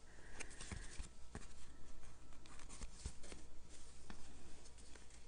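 Faint rustles and scattered light clicks and taps of hands handling cardstock and ribbon on a craft table.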